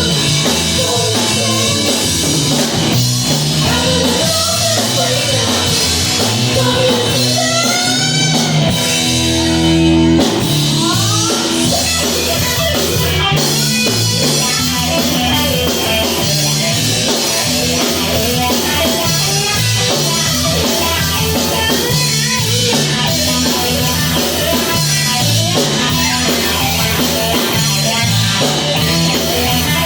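Rock band music with electric guitar and drum kit playing at a steady beat.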